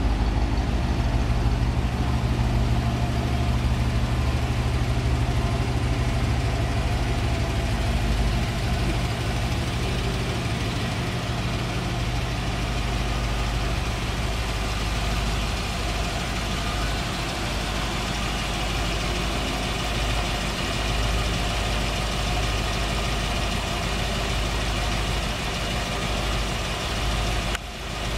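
1955 Chevrolet Bel Air Nomad's engine idling steadily, a low even hum that eases a little after about eight seconds.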